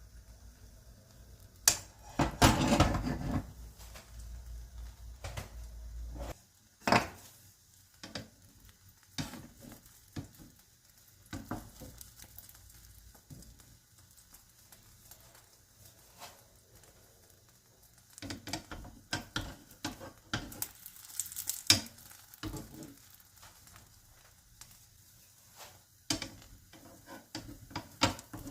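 Kitchen food preparation: utensils clinking and knocking against dishes and pans, with intermittent sizzling, in scattered irregular strokes. A low hum stops about six seconds in.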